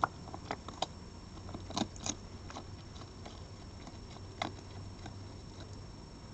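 An animal eating, with irregular crunches and clicks of chewing on food, the loudest near the start and about two seconds in.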